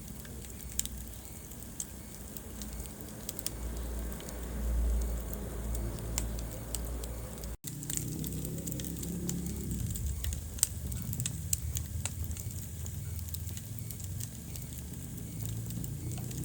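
Wood fire in a fireplace crackling, with frequent sharp pops over a low rumble of the flames. The sound cuts out for an instant about halfway through.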